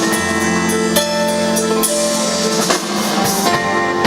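Live band playing an instrumental introduction: a drum kit keeping a steady beat, with bass and guitar over held chords.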